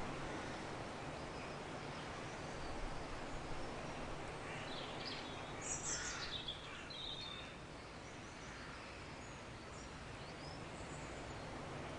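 Nature-sound ambience: a steady soft hiss with a few birds chirping in the middle.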